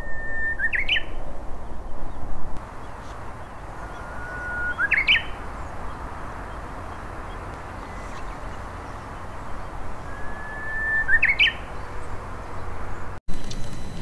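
Japanese bush warbler singing its 'hoo-hokekyo' song three times, about five seconds apart. Each song is a long held whistle that breaks into a quick rising flourish. A steady low rumble runs underneath.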